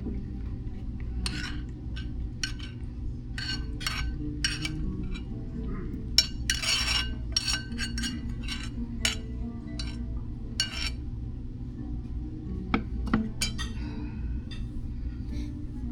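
Cutlery and dishes clinking: a string of light, irregular knocks and clinks over a steady low background hum.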